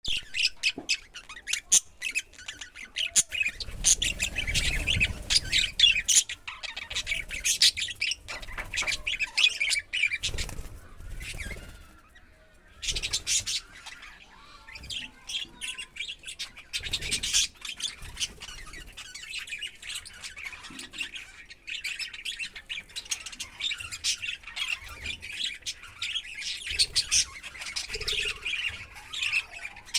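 Birds chirping and squawking in rapid, overlapping short calls, with a brief lull about twelve seconds in.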